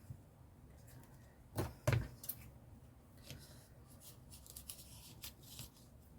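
Paper and craft tools handled on a desk: faint rustles and small clicks, with two knocks close together a little under two seconds in.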